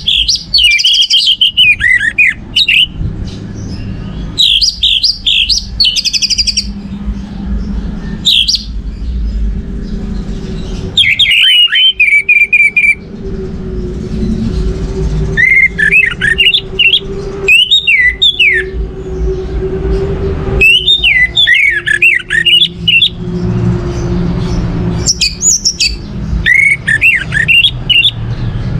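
Orange-headed thrush (anis merah) singing: short, varied, high warbling phrases repeated every two to three seconds with brief pauses between them, over a low background rumble.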